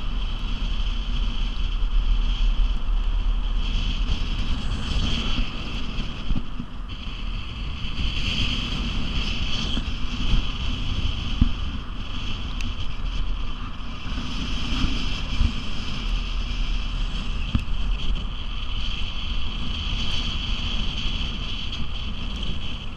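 Hurricane-force wind blowing hard, buffeting the microphone, with a high whistling note that swells and eases every few seconds.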